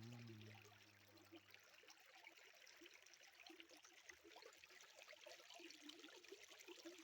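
Faint running stream water trickling steadily. A low steady hum sounds for the first second and a half, then fades.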